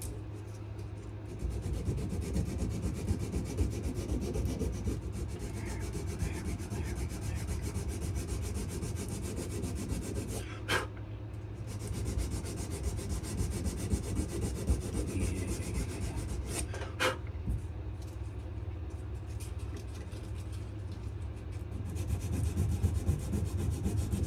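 Coarse-grit sandpaper rubbed back and forth by hand over a wenge and maple knife handle, in uneven strokes that start up about a second and a half in. Two sharp clicks break in, one near the middle and one a few seconds later.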